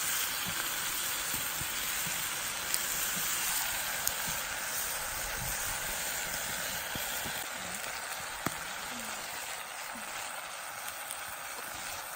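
Food frying over a campfire: a steady sizzle with a few faint ticks, easing slightly after about four seconds.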